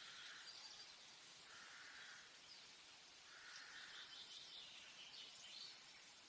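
Faint forest ambience: birds calling over a soft steady hiss, with a short call repeating about every two seconds and higher chirps mixed in.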